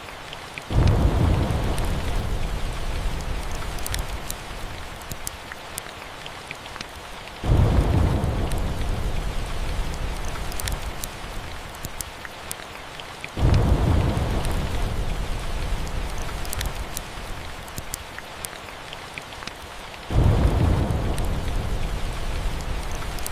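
Steady rain with rolls of thunder: four low rumbles, each starting suddenly and fading away over several seconds, about every six or seven seconds.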